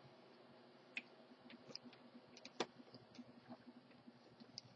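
Near silence with a few faint clicks of a screwdriver and small screws on the plastic base plate of a Hoover Elite Rewind upright vacuum while its brush-roll cover screws are taken out. The clearest clicks come about a second in and just past the middle.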